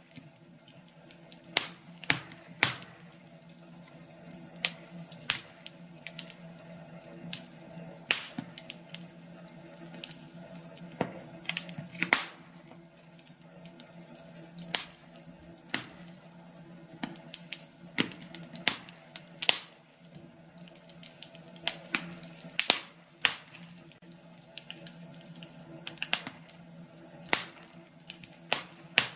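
Wood fire crackling, with irregular sharp pops and snaps of the burning logs, some louder than others, over a low steady hum.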